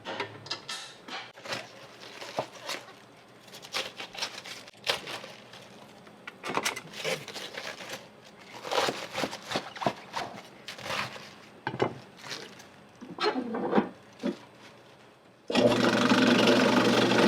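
Metal spatulas clinking and scraping on an iron okonomiyaki griddle in irregular strokes. About fifteen seconds in, a loud steady noise with a low hum starts suddenly and keeps going.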